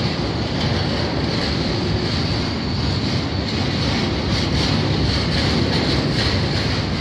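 Empty steel-cradled bogie flat wagons of a freight train rolling past, a steady rumble of wheels on the rails.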